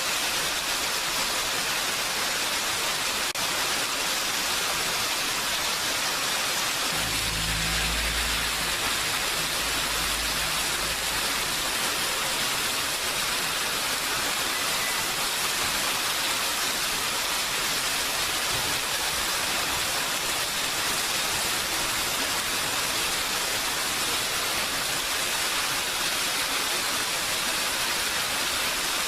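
Steady heavy rain falling, an even hiss. About seven seconds in a low rumble joins it for about four seconds, then fades.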